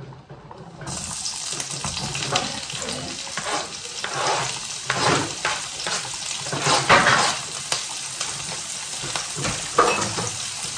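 Chopped onion, garlic, chili and ginger sizzling in hot oil in a frying pan. The sizzle starts suddenly about a second in as they hit the pan, then holds steady, with louder scraping strokes over it as the plate is scraped and the pan stirred.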